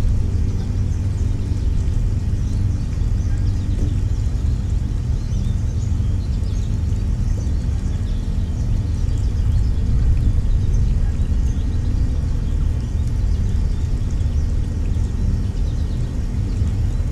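A steady low rumble with a faint hum, like a running engine or distant traffic, dominates; over it, faint short high bird chirps come and go throughout.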